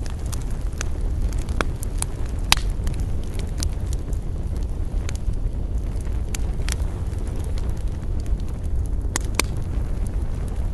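Campfire crackling: sharp wood pops at irregular intervals, the loudest about two and a half seconds in, over a steady low rumble.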